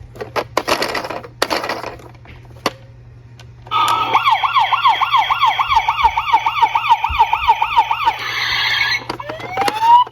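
Electronic police-car siren in a fast yelp, its pitch swinging up and down about four times a second. It starts a little under four seconds in, gives way to a brief harsh tone, then winds up in a rising wail near the end. Before it, a couple of short noisy rattles.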